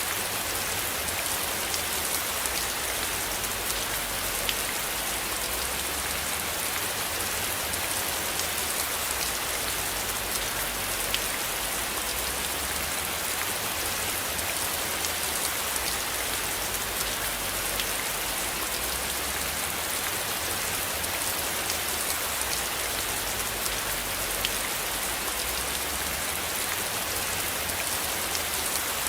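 Steady rain falling on a surface: an even hiss scattered with sharp little drop ticks, over a low rumble underneath.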